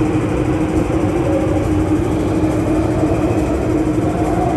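MTR Tuen Ma Line electric train running through an underground station without stopping: a steady, loud rumble of wheels on rail with a steady low hum from the train.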